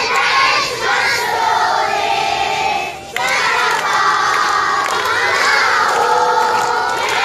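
A group of children shouting together in unison, holding drawn-out calls, with a short break about three seconds in.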